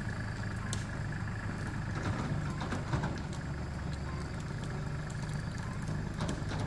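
Tractor diesel engine running at a steady speed, with a few faint clicks over it.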